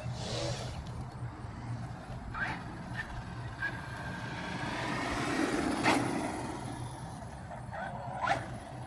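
Mojave 4S RC truck being driven: its brushless electric motor whines, the pitch gliding up and down with the throttle, over a low steady hum, with a few sharp knocks.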